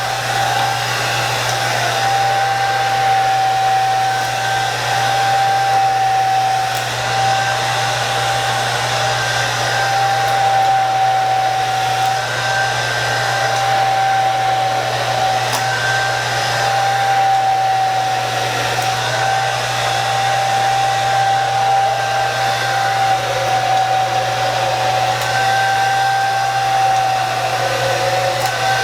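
Handheld hair dryer running steadily while blow-drying hair: a constant rush of air with a steady whine from the motor.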